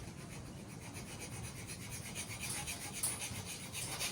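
A steel reinforcing bar being notched by hand, a rapid run of rasping cutting strokes. The notch is cut so the bar can then be snapped off by bending.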